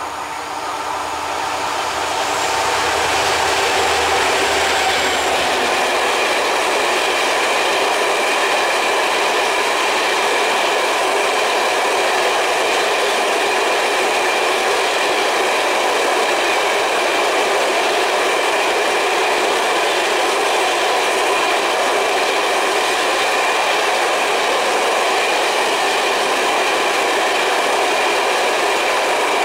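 Freight train hauled by an M62M diesel locomotive passing at speed. The locomotive's engine hum is heard in the first few seconds. Then a long string of open coal wagons rolls by with loud, steady wheel noise carrying a faint ringing tone.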